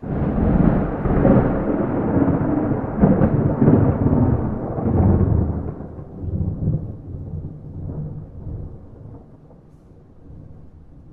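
A peal of thunder with no rain: it breaks in suddenly out of silence and rolls loudly for about five seconds with crackling on top of the deep rumble, then dies away slowly into a low rumble.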